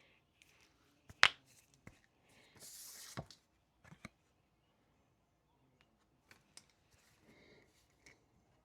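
Small handling noises at a study desk: a sharp tap about a second in, a brief rustle around three seconds, and a few lighter clicks and knocks scattered through the rest.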